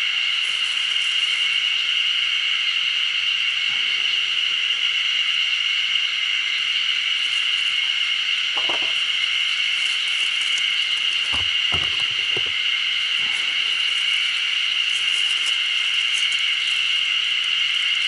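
A steady, high-pitched insect chorus that holds one pitch, with a few short knocks midway.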